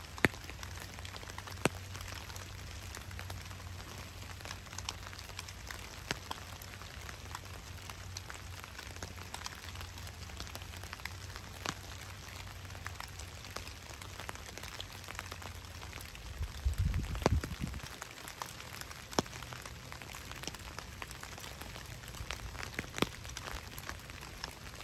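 Steady rain falling in woodland, with scattered sharp ticks of drops throughout. A brief louder low rumble comes about two-thirds of the way through.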